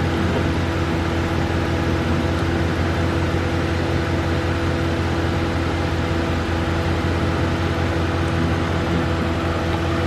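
Vehicle engine idling steadily: an even, unchanging hum.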